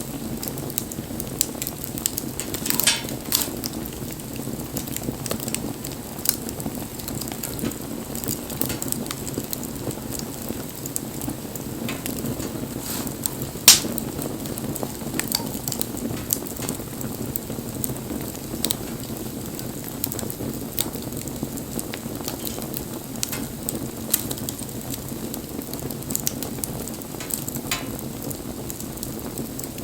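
Wood bonfire burning: a steady low rush of flame with frequent small crackles and pops, and one loud sharp snap about fourteen seconds in.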